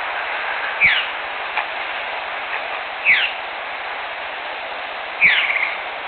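A bird's short, downward-sweeping call, given three times about two seconds apart, the last trailing into a brief trill, over a steady background hiss.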